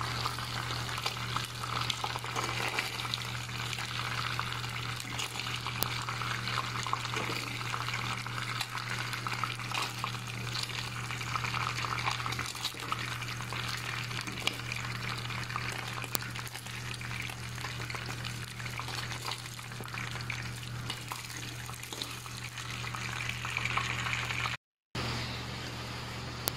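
Chicken pieces deep-frying in hot oil: a steady sizzling crackle over a low hum. The sizzle cuts off near the end, leaving a quieter steady hum.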